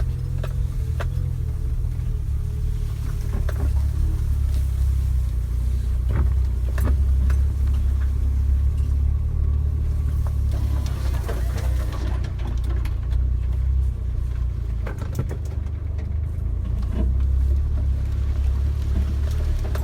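Lifted Suzuki Jimny running off-road: a steady low engine and drivetrain rumble, with scattered short clicks and knocks over it.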